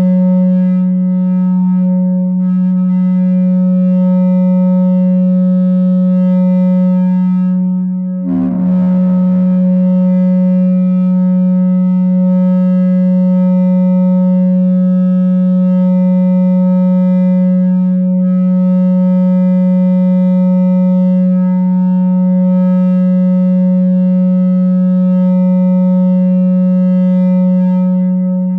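No-input mixer feedback drone, the mixer looped through an effect pedal into itself: one steady low tone with a stack of overtones above it. About eight seconds in it briefly dips and breaks up into noise, then settles back to the same tone.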